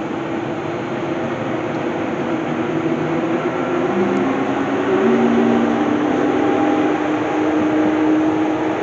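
ICE high-speed train's power car rolling past, its wheels on the rails giving a steady rumble that grows louder, with a drive hum that steps up in pitch as the train gathers speed.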